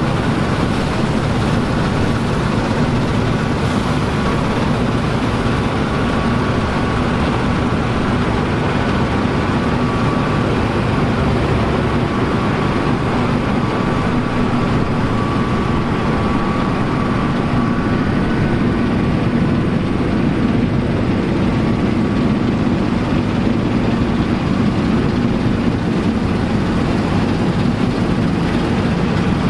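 Vintage harvest machinery running steadily, a heavy engine held at constant speed under load.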